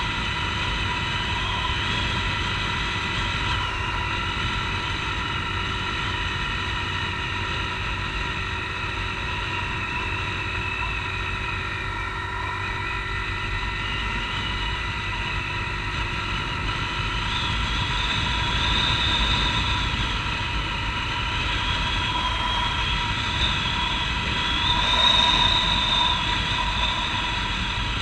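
Honda CG Titan 150 motorcycle's single-cylinder four-stroke engine running steadily at cruising speed, with wind rumble on the helmet-mounted camera.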